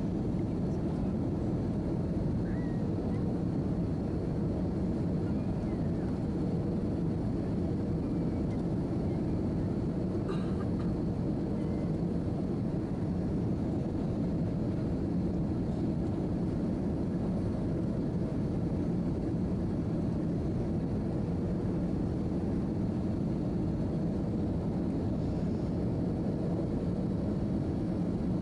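Steady cabin noise of an Airbus A319-111 airliner heard from a seat inside the cabin: its CFM56 jet engines and the airflow make an even rumble, with a faint steady hum running through it.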